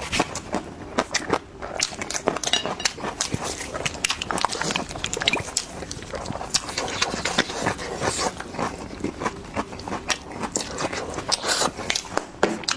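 A person eating close to the microphone, chewing with a quick, uneven run of wet mouth clicks and smacks.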